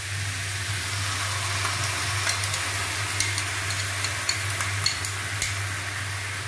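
Masala-coated chicken pieces sizzling in oil in a frying pan as whisked yogurt is spooned in and stirred, with a metal spatula and spoon clicking and scraping against the pan several times.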